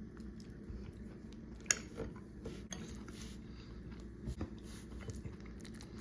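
An eating utensil clicking against a plastic food tray as a bite of sweet and sour chicken is picked up, one sharp click about two seconds in followed by a few lighter ones, with soft chewing, over a low steady hum.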